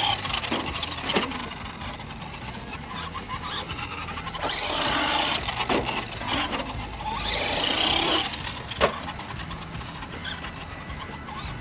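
1/10-scale FMS Ford F-100 RC monster truck's electric motor whining up and down in bursts of acceleration over tyre noise, with two sharp knocks, the louder one near the end.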